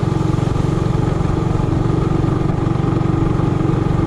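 Small single-cylinder minibike engine running steadily at an even speed, its exhaust pulsing rapidly with no revving.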